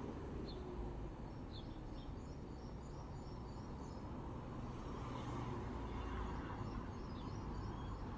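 Outdoor ambience: a steady low rumble and hiss, with faint, short, scattered high chirps, likely small birds or insects.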